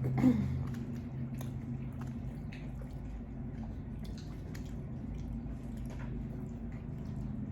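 Close-miked chewing of lo mein noodles: wet, squishy mouth sounds with scattered small clicks, and one louder mouth sound just after the start. A steady low hum runs underneath.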